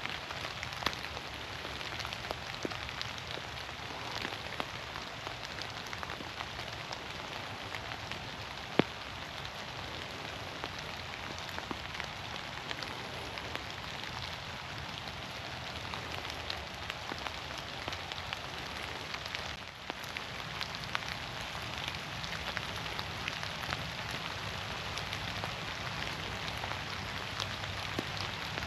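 Steady rain falling through forest trees, an even patter with many scattered individual drops ticking close by and one sharper drop or tick about nine seconds in.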